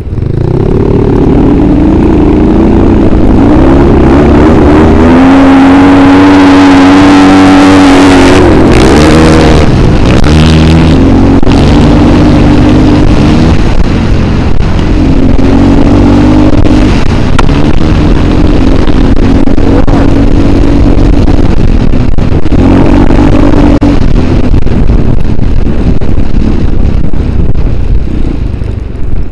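Engine of an off-road vehicle being ridden hard, heard close up, revving up and down. Its pitch climbs steeply for a few seconds near the middle, then keeps swinging.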